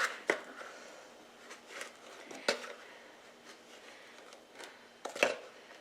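A few light knocks and taps of a measuring cup against a bowl and bag as packed brown sugar is scooped and measured out. The two loudest come about two and a half seconds in and just after five seconds.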